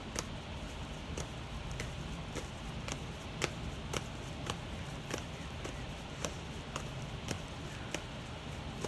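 Tarot cards being shuffled by hand to draw a clarifier card: a string of sharp, irregular ticks, about two or three a second, over a steady low hum.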